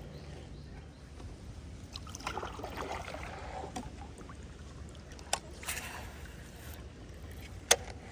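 Water swishing and sloshing around a kayak, followed by a few sharp clicks or knocks on the boat, the loudest near the end.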